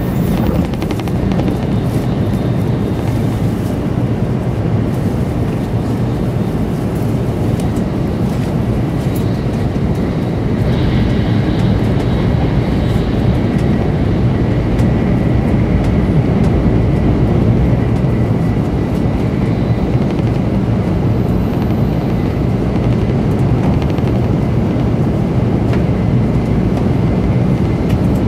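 Steady rumble of a 700 Series Shinkansen running at speed, heard inside the passenger cabin. It grows a little louder through the middle, while the train passes through a tunnel.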